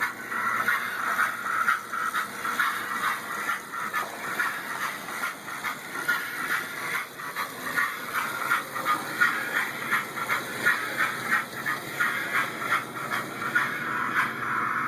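American Flyer model locomotive running on its track, giving a continuous rapid, uneven clatter.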